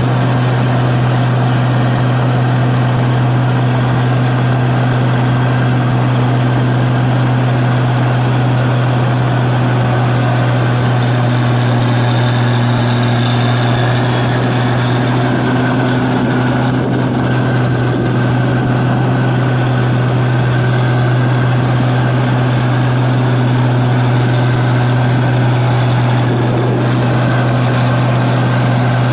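New Holland 8060 combine harvester's diesel engine and machinery running steadily under harvesting load, a loud continuous drone with a strong low hum.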